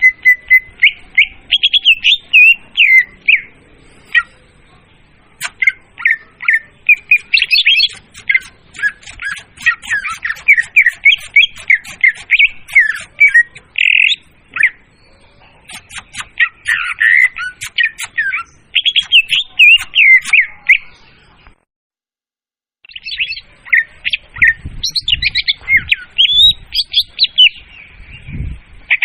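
Leafbird (murai daun) song, played as a trapping lure: fast, varied chattering and whistled phrases with quick up-and-down notes, loud and continuous. It cuts to dead silence for about a second some two-thirds of the way through, then starts again, with a low rumble under it near the end.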